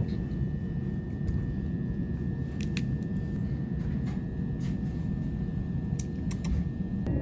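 Steady low rumble of a moving train carriage, with a faint steady high whine and a few light clicks.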